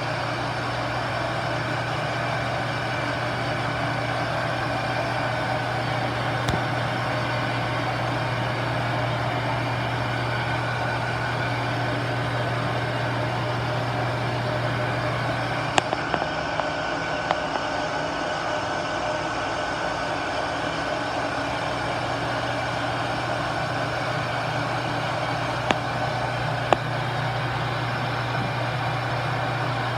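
Metal lathe running with a steady motor hum and machine noise. A few sharp clicks or knocks come about halfway through and again near the end.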